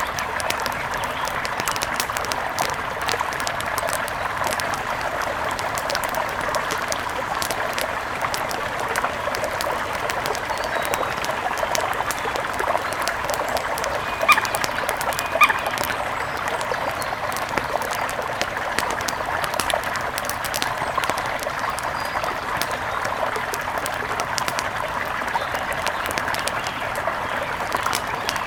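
Steady rush of a mountain river with faint crackling of a wood fire. Two short, sharper sounds stand out about halfway through.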